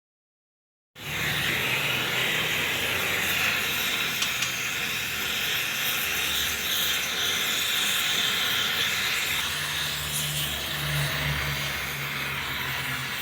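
Electric arc welding on a bolt: a steady sizzling hiss that starts about a second in and holds evenly.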